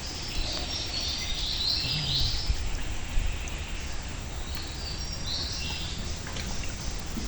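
High-pitched wildlife chirping from the riverside forest, in two stretches, the first early and the second about five seconds in, over a steady low rumble.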